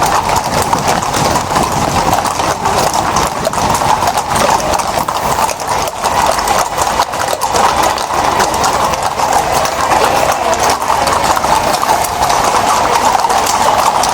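Hooves of a procession of ridden horses clip-clopping on a street, many horses at once so the hoofbeats run together into a steady, continuous clatter.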